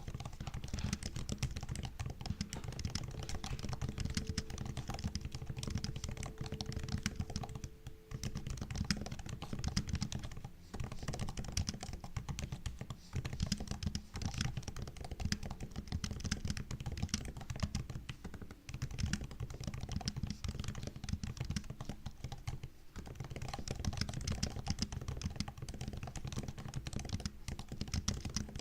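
Continuous fast typing on a MacBook laptop keyboard, a dense run of soft key clicks and taps with a few brief pauses.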